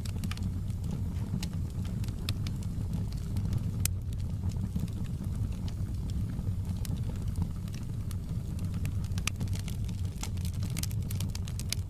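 Wood fire crackling in a fireplace: a steady low rumble of burning with frequent sharp pops and snaps, coming thicker near the end.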